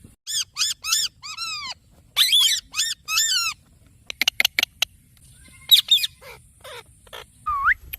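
Parrot calling: a run of short, arched squawks, then a quick series of sharp clicks about four seconds in, more squawks, and a rising whistle near the end.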